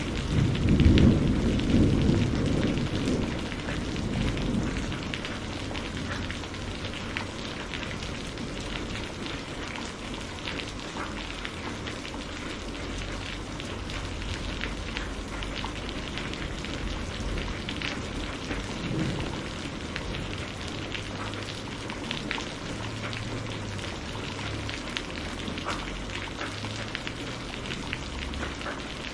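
Steady rain falling, with a dense patter of drops. A roll of thunder rumbles about a second in and fades away over the next few seconds.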